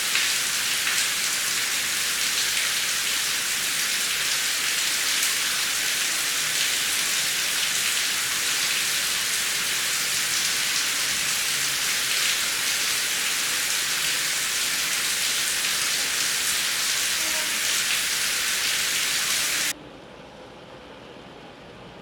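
Heavy rain falling in a steady, dense hiss. It cuts off suddenly near the end and gives way to a much quieter steady hiss.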